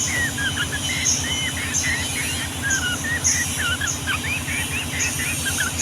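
Yellow-vented bulbuls (trucukan) singing a long, fast run of short, bubbling whistled phrases, several overlapping. Brief high chirps come about once a second, all over a steady low rumbling hum.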